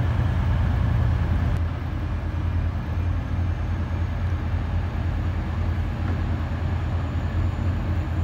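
Steady low rumble of a train at a railway station, with faint station ambience above it.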